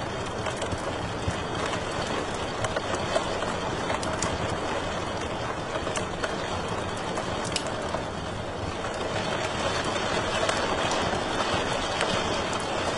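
Wood fire crackling in a fireplace: a steady hiss and low rumble with scattered sharp pops and snaps.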